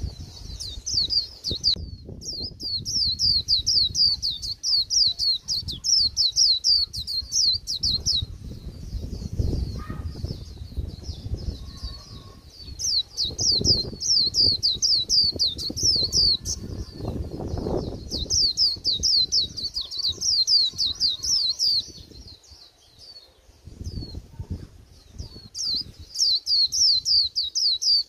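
Young white-eye singing its fast twittering 'líu' song in repeated bursts of rapid, high, falling notes, with pauses between bursts; the keeper calls it a plain, bland song. Low rumbling noise runs underneath.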